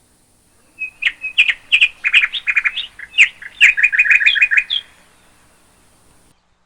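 A songbird singing: a rapid, varied run of short chirps and trills lasting about four seconds, starting just under a second in.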